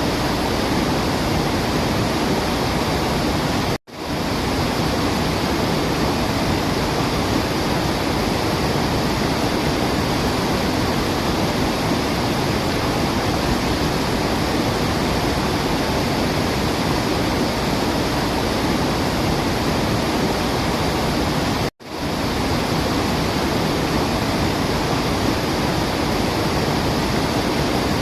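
Waterfall rushing in a steady, dense wash of water noise. It cuts out for an instant twice, about 4 seconds in and about 22 seconds in, then fades straight back up.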